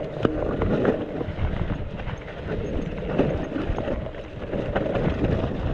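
Mountain bike descending a rough, muddy trail: a steady rush of tyre and riding noise with scattered knocks and rattles as the bike hits roots and bumps.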